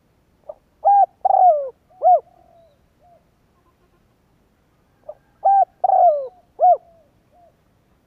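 Spotted dove cooing: two matching phrases about four and a half seconds apart. Each phrase is a short soft note, then three loud hooked coos, the middle one drawn out and falling, then a couple of soft trailing notes.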